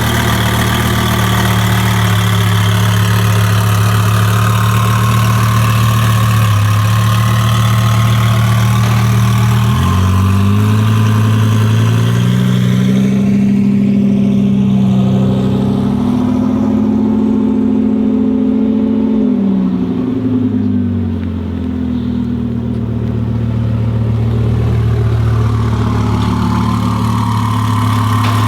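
Twin-turbo Audi R8 V10 engine running at a steady idle. About ten seconds in the engine speed rises, holds higher for several seconds, then settles back to idle.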